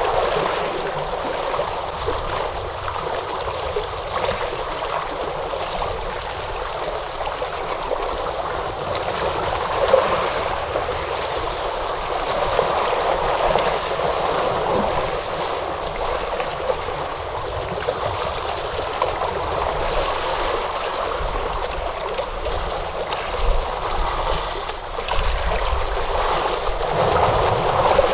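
Ocean surf washing on a shore: a steady rush of water that swells gently now and then, without any single sharp crash.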